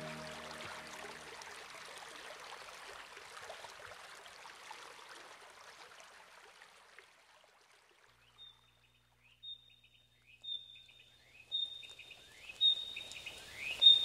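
A bird calls six times, about once a second, each call a quick upward sweep ending in a short high whistle, growing louder toward the end. Before the calls, a soft rushing noise fades away to near silence.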